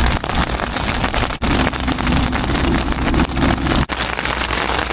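Heavy rain falling on a tent, a dense steady hiss broken by two very brief gaps.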